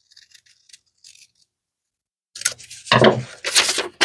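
A pattern piece being cut down: a few faint light clicks, a pause, then a run of loud rustling, scraping and clicking in the last second and a half.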